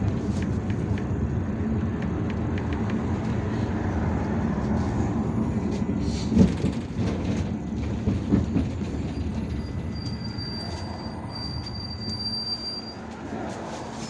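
IVECO Urbanway 18M articulated city bus on the move, heard from inside: steady engine and road rumble with rattles. Two sharp thumps come about six and eight seconds in, and a thin high whine sounds for a few seconds near the end as the noise eases off.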